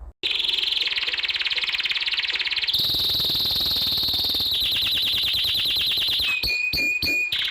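Domestic canary singing a long rolling song of fast trills that switch to a new phrase every couple of seconds. Near the end it gives three short, steady whistled notes, then goes back to trilling.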